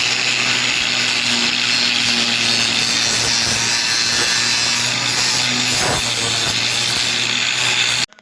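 A power tool running steadily under load, a harsh hiss over a steady motor hum, stopping abruptly near the end.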